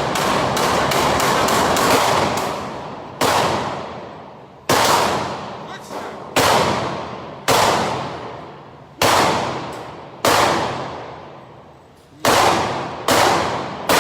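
Handgun shots fired at a range: a quick string of shots in the first couple of seconds, then single shots spaced about one to two seconds apart. Each crack rings out and fades over a second or more.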